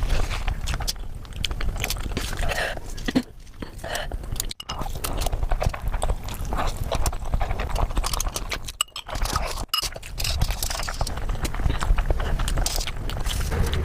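Close-miked eating of spicy noodles: wet chewing, slurping and mouth smacks in a dense run of clicks, broken by two abrupt cuts.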